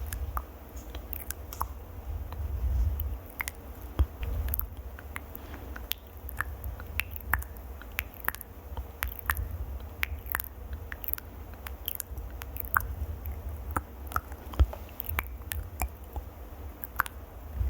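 Close-miked ASMR trigger sounds: a quick, irregular run of sharp clicks and crackles right at the microphone over a low handling rumble, with no speech.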